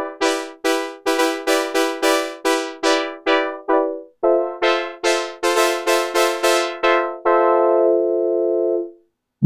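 Korg Polysix analog synthesizer playing a brass patch: short, punchy chord stabs, each bright at the attack and quickly fading, about three a second. Near the end a chord is held and then fades out.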